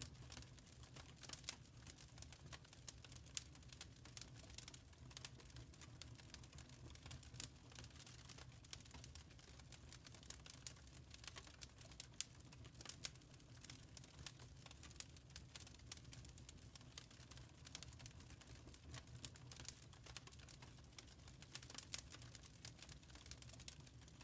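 Faint wood fire crackling in a fireplace: irregular sharp snaps and pops over a steady low rumble.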